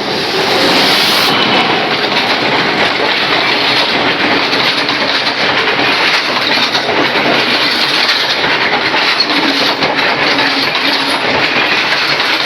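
Train running past close by: a loud, steady rush of rolling noise from the wheels on the rails.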